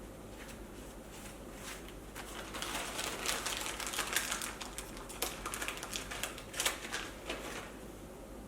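A rapid run of light clicks and rustling from hands handling a small plastic bag of cable ties, lasting about five seconds and starting a couple of seconds in.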